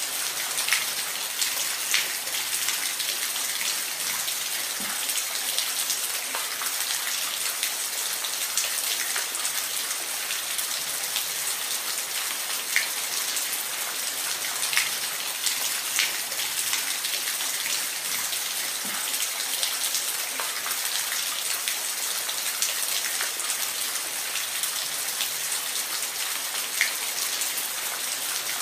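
Steady rain falling, an even hiss with scattered louder drips landing on a surface.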